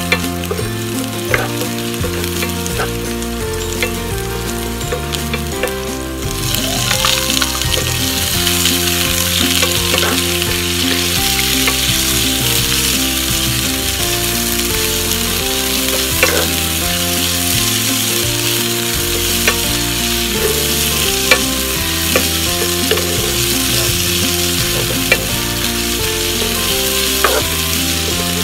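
Chopped garlic and lemongrass sizzling in hot oil in a nonstick pan, stirred with a wooden spatula that clicks against the pan now and then. About six seconds in the sizzle gets louder and brighter as sliced red onions go into the pan and are stir-fried.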